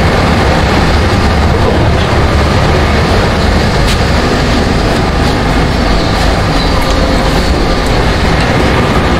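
A diesel passenger train running with a steady low rumble, heard from inside the carriage.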